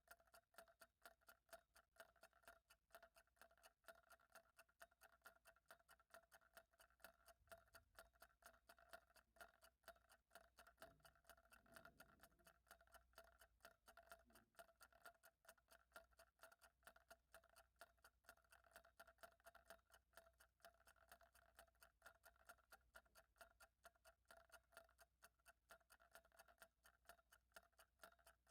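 Faint, evenly paced ticking, several ticks a second, over a faint steady hum.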